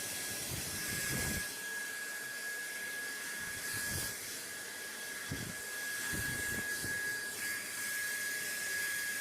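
Steady white-noise hiss with one constant high whine in it, and low rumbles that swell and fade now and then, strongest in the first second and a half.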